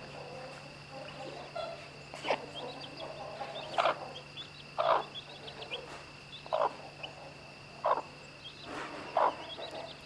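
A mother hen clucking in short calls, six in a row about a second or so apart, while her chicks peep with many faint, high chirps. A steady low hum and a thin high tone run underneath.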